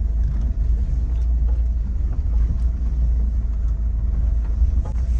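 Car running, a steady low rumble with a faint steady hum above it.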